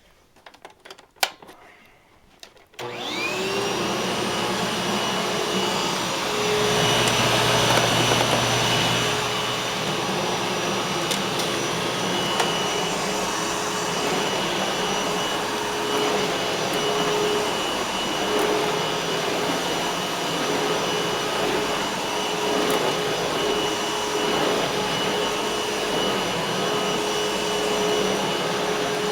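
Eureka Boss Smartvac 4870 upright vacuum cleaner set to hard floor: a click, then the motor starts a few seconds in with a rising whine and settles into a steady high-pitched run as it vacuums.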